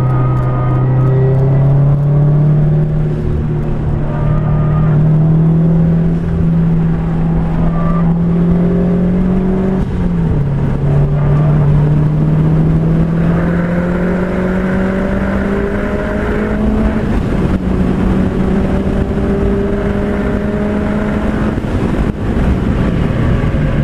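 Car engine heard from inside the cabin under full acceleration on a race track: the engine note climbs steadily, drops at an upshift about ten seconds in and again about seventeen seconds in, then climbs again, with wind and road noise beneath it as the car passes 120 mph.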